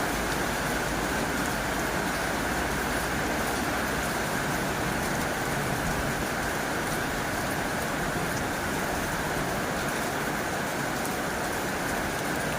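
Heavy rain drumming steadily on a tin roof: a dense, even hiss of drops with faint sharper drop ticks scattered through it.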